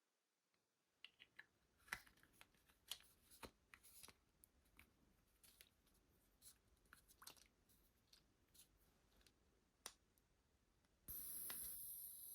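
Faint, scattered clicks and light taps of small objects being handled, typical of unpacking a small plastic gadget. Near the end a steady high-pitched hiss starts suddenly.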